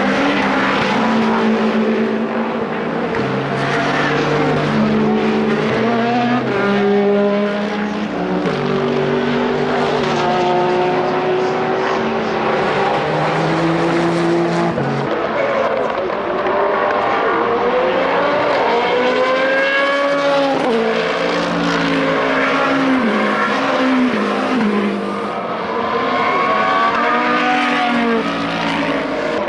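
Several sports-car racing engines at speed. Their pitch steps up and down with gear changes, and it swoops as cars come past one after another.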